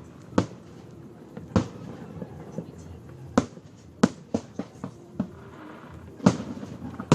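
Fireworks display: aerial shells bursting in sharp, irregular bangs, about ten in all, with a quick run of bangs in the middle and the loudest ones near the middle and toward the end.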